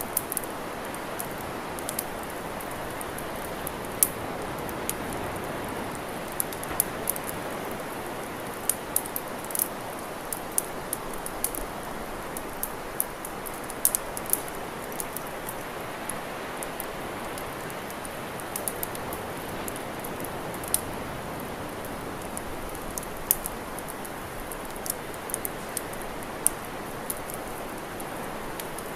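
Campfire crackling: irregular sharp pops and snaps, a few of them louder, over a steady rushing hiss.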